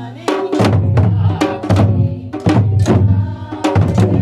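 Korean janggu hourglass drums beaten together in a steady rhythm, about two to three strokes a second, accompanying a group singing a folk song.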